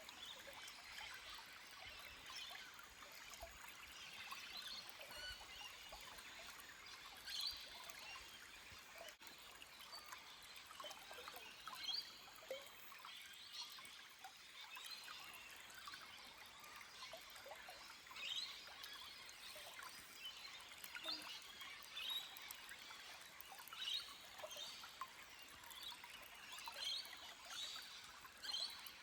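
Small forest stream trickling and splashing over rocks, quiet and steady with many small splashes, and bird calls now and then.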